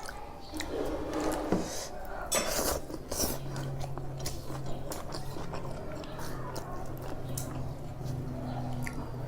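Close-miked chewing and eating mouth noises, with frequent small clicks and occasional light clinks of dishes.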